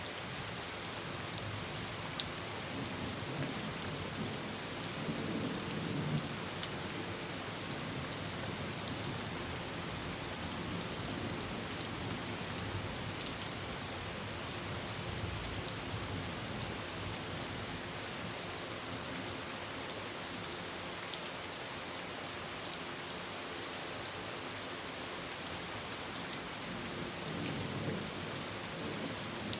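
Heavy rain falling steadily on a tin roof, with scattered sharp drop ticks. Low thunder rumbles twice, once a few seconds in and again near the end.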